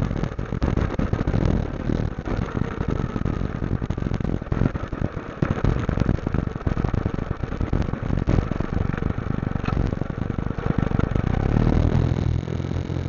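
Motorcycle engine running on the move, with wind buffeting the microphone in irregular gusts.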